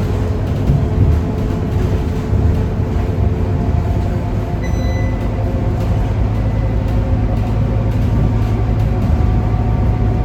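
Scania K230UB bus's five-cylinder diesel engine heard from on board, pulling under load with its pitch slowly rising over the second half. A short high beep sounds about halfway through.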